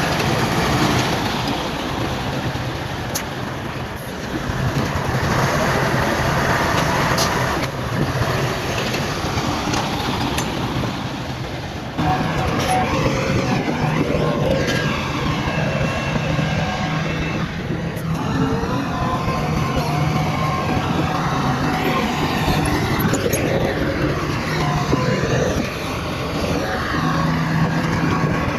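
Bulldozer's diesel engine running steadily under load, with occasional sharp metallic clanks. From about halfway through, higher wavering whining tones rise over it. The sound changes abruptly a few times.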